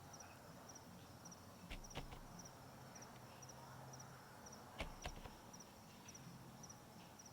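Faint cricket chirping, a thin high double chirp repeating about twice a second, with a few sharp clicks or knocks about two seconds in and again about five seconds in.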